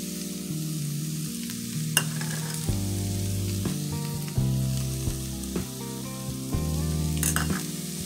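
Chopped cabbage and onion frying in a pan with a steady sizzle, under background music with a bass line that steps between notes. Two sharp clicks, about two seconds in and near the end.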